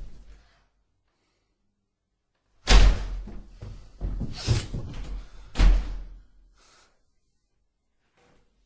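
Three heavy bangs with rattling between them, about three, four and a half and nearly six seconds in, like a door being slammed or banged on, after a couple of seconds of quiet.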